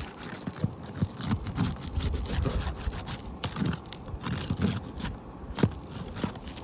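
Irregular scraping, crunching and sharp clicks as brittle asphalt roof shingles are pried at and handled.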